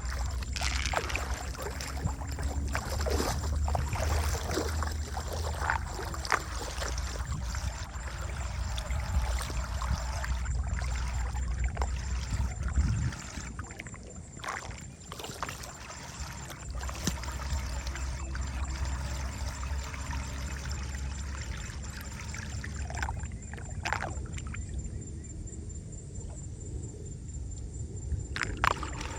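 Water splashing and trickling through a drain, with irregular knocks and scrapes and a low rumble that comes and goes.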